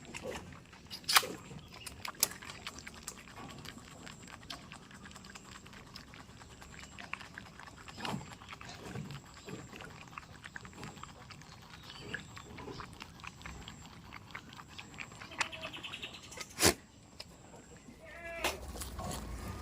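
Farm goats with faint, scattered calls and movement, cut by a few sharp, loud knocks.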